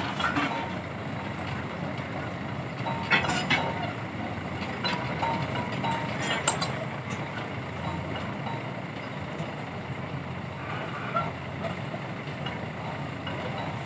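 Heavy diesel machinery running steadily, with a few sharp metallic knocks, the loudest about six and a half seconds in.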